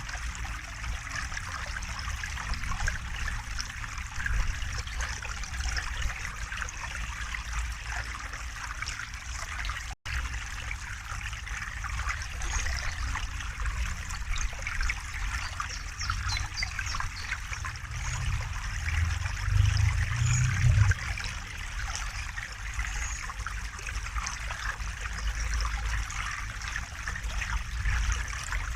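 River water flowing steadily over rocks, an even trickling and babbling rush, with a low rumble that swells briefly about two-thirds of the way in. The sound drops out for an instant about a third of the way in.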